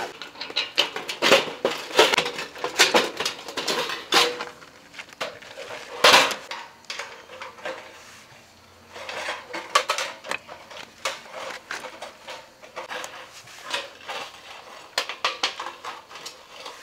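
Thin metal parts of a lightweight Senpu Hanabi (千風花火) fire pit clinking and clattering as they are handled and fitted together, with a quieter pause in the middle.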